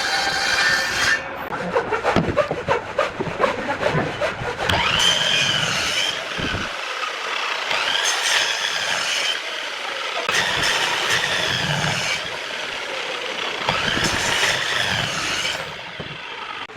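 An electric power tool working wood: scraping and clattering at first, then repeated passes every few seconds in which its whine dips in pitch as it bites into the wood and rises again as it frees up.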